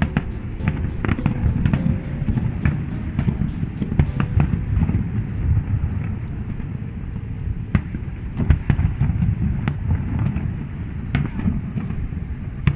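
Fireworks display: a continuous low rumble of shell bursts, broken by frequent sharp cracks and bangs.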